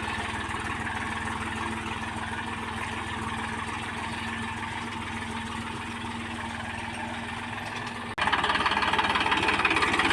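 Tractor engine running steadily. About eight seconds in it breaks off abruptly and comes back louder and brighter.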